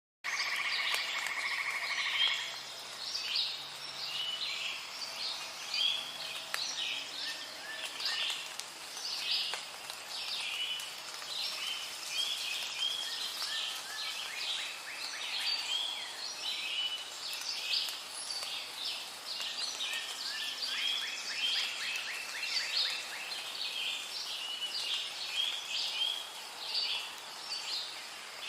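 Rainforest ambience: many birds chirping and calling densely over a steady background hiss. It starts suddenly out of silence, with a steady high trill in the first two seconds.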